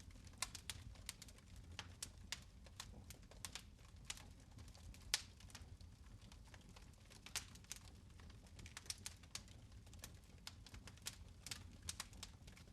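Fire in a fireplace crackling: irregular sharp pops and ticks, a few louder than the rest, over a low steady rumble of the flames.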